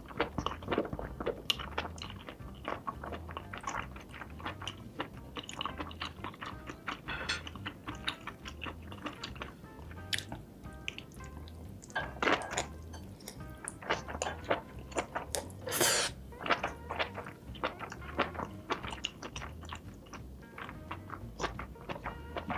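Wet chewing and mouth smacks of someone eating saucy tteokbokki, with background music carrying a soft, evenly repeating low beat underneath.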